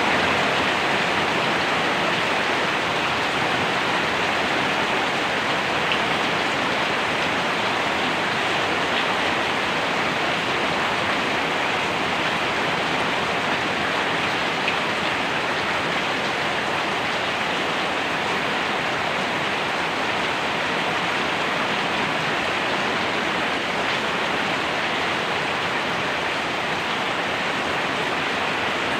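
Steady, even rainfall hissing without a break.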